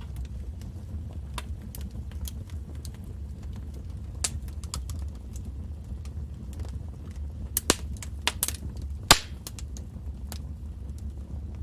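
Wood fire crackling in a fireplace: scattered sharp pops and snaps over a steady low rumble of the flames. A cluster of louder pops comes about two thirds of the way through, the loudest just after.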